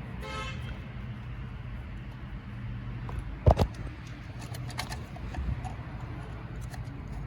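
Metal clicks and taps of bolts and tools as bolts are threaded in by hand, with one sharp knock about three and a half seconds in, over a steady low hum.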